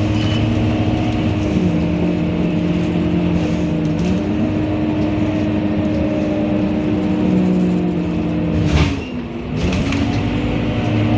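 Scania K230UB bus's diesel engine running, its note dropping and rising again twice as engine speed changes. Near the end there is a short hiss and a brief dip before the engine picks up again.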